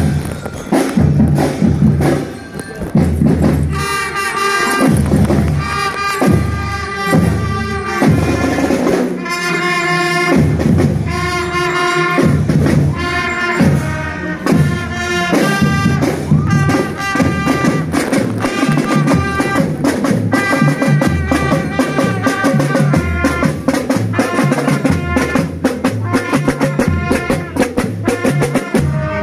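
School marching drum band playing: drums and bass drum beat a steady rhythm under a melody carried by the band's melodic instruments.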